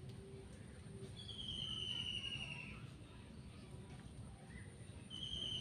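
A bird calling in the background: a long whistled note falling slightly in pitch, heard about a second in and again near the end.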